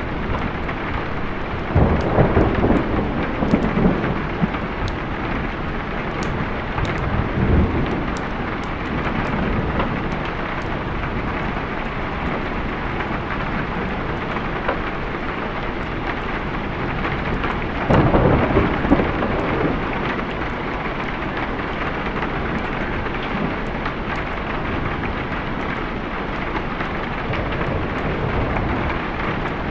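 Steady rain with rolls of thunder: the loudest rumbles come about two seconds in and again about eighteen seconds in, with a smaller one around seven seconds.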